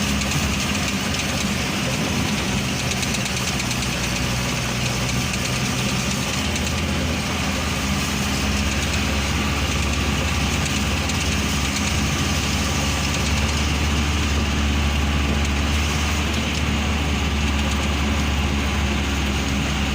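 Motor vehicle engine running steadily while driving uphill, heard from on board. A low drone that grows heavier about a third of the way in.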